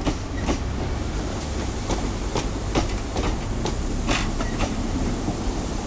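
First Great Western High Speed Train coaches running past along the platform: a steady low rumble of wheels on rails, broken by sharp, irregular clicks, about two or three a second, as the wheels cross rail joints.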